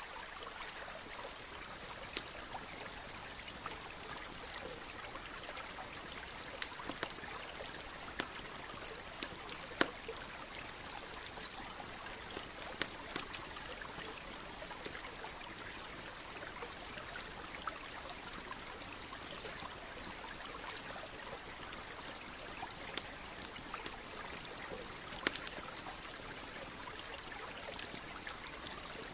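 Campfire crackling, with sharp pops scattered irregularly, over the steady flow of a nearby stream.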